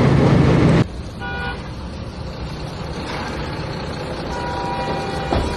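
Loud wind and engine noise from riding cuts off abruptly under a second in, giving way to road traffic with a short vehicle horn toot about a second in and faint horn-like tones later on.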